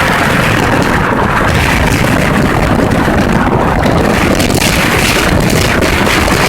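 Strong wind buffeting the microphone: a loud, continuous rumbling rush with constant low-end flutter that covers everything else.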